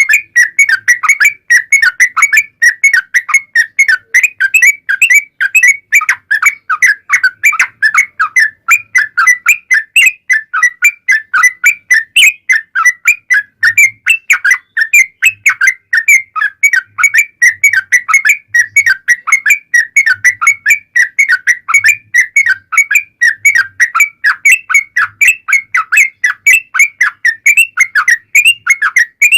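Sooty-headed bulbul (trucukan) singing a long, unbroken run of short whistled notes, several a second, in the rapid 'ropel' style used as a lure call to get other bulbuls singing.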